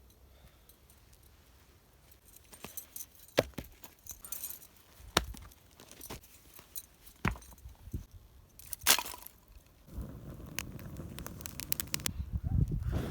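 Cooking gear being handled: scattered sharp clinks and knocks, then a steadier scraping noise from about ten seconds in that grows louder.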